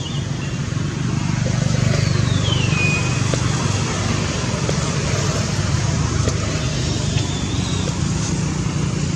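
Steady low hum of a running engine over outdoor background noise, with a high squeak that falls in pitch about two seconds in and a shorter high squeak near the end.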